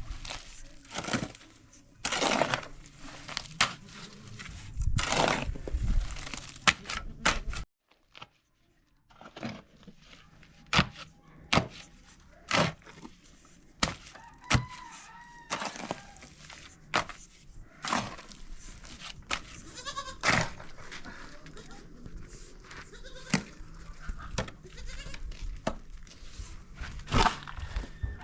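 Irregular sharp cracks and knocks, like handling or breaking dry material, with occasional brief animal calls in the background.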